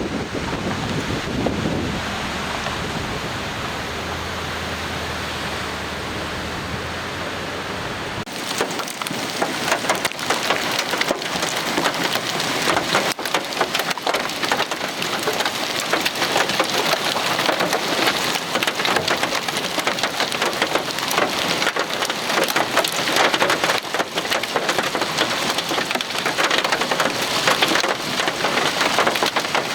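A steady rushing noise with a low hum gives way abruptly, about eight seconds in, to heavy rain pelting down in a dense, rapid patter.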